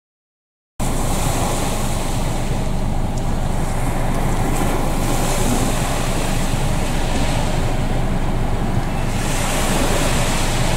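Outdoor shore noise: wind buffeting the microphone together with the wash of sea surf. It begins abruptly about a second in and stays steady, with slow swells.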